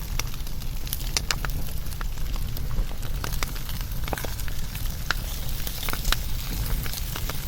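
Wood fire burning, with irregular crackles and sharp pops over a low, steady rumble.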